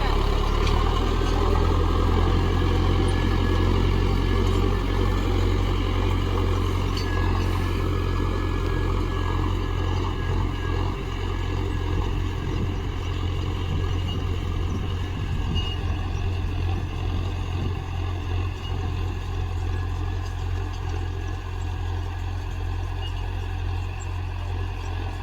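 Tractor diesel engine running steadily, with a deep, even hum that grows slightly quieter over the second half.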